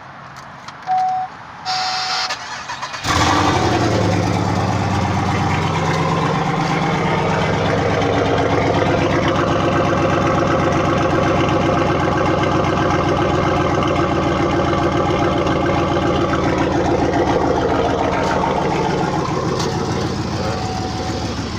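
Pontiac Grand Prix GXP's 5.3-litre V8, straight-piped with no mufflers, catalytic converters or resonator, cranking and catching about three seconds in. It then runs loudly at idle. Two short chime beeps sound before the start.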